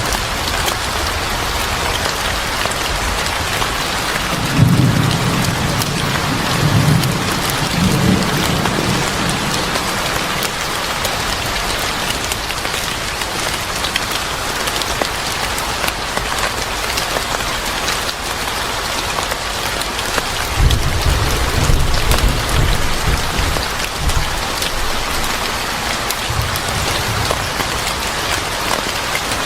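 Steady heavy rain hissing on a surface, with low rolls of thunder twice: about five seconds in and again past the twenty-second mark.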